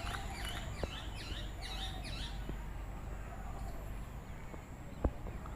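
Birds chirping in a quick run of short, falling chirps that stop about halfway through, over a low steady rumble. A single sharp knock near the end.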